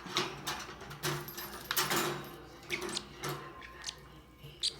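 Metal wire bird cage being handled and opened: a run of irregular clicks, clinks and rattles of its parts, with a short high squeak near the end.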